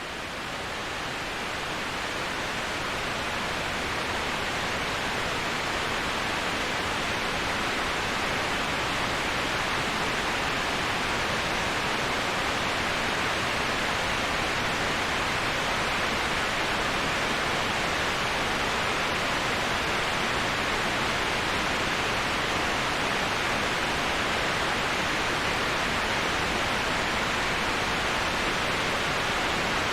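Steady rushing of a waterfall, a dense even hiss that swells up over the first few seconds and then holds level.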